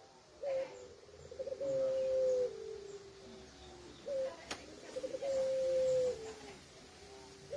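Puter pelung dove cooing: two long coo phrases, each a short opening note, a fluttering stretch, then a long held note falling to a lower drawn-out note, with a third phrase starting at the end. A single sharp click about four and a half seconds in.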